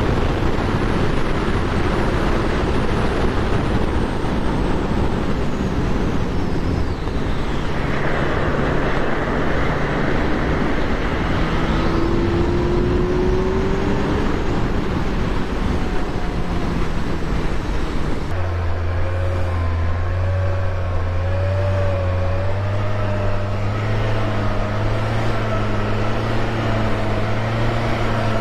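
Motorcycle riding at speed, with heavy wind rush on the microphone over the engine. About two-thirds of the way through, the wind noise drops suddenly and the engine's steady low drone comes through clearly.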